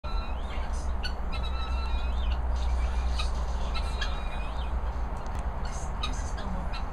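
Birds calling, scattered short chirps and thin whistled notes, over a steady low rumble.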